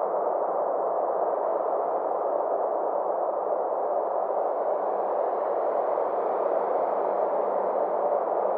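Steady synthesized space-ambience drone: a soft, even rushing noise sitting in the low-middle range, with a faint upper sweep that slowly rises and falls.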